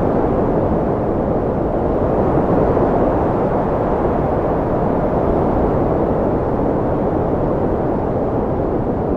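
Strong wind blowing in a steady, low rush, with no gusts or breaks.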